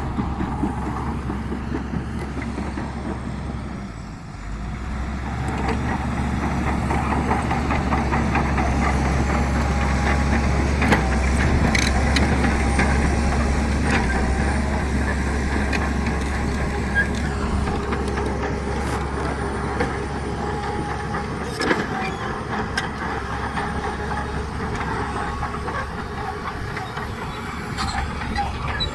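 Heavy diesel earthmoving machinery working: a large diesel engine running under load, with scattered sharp knocks. It dips briefly about four seconds in, runs louder for a while, and eases back a little after twenty seconds.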